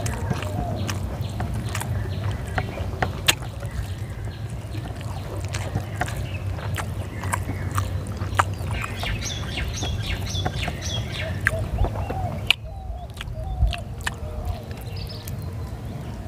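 A person eating rice by hand close to the microphone: chewing and mouth smacks with frequent short clicks. Birds call in the background near the middle.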